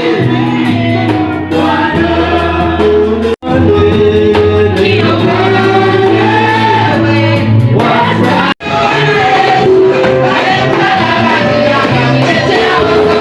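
Church praise and worship: a choir and congregation singing a gospel song over steady low instrumental backing. The sound drops out to silence twice, briefly, about three and eight and a half seconds in.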